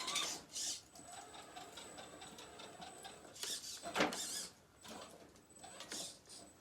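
Redcat Gen7 Sport 1/10 rock crawler's electric motor and geared drivetrain whirring at crawl speed as it climbs, with a thin steady high whine. Its tyres and chassis scrabble and knock against the obstacle, loudest about four seconds in.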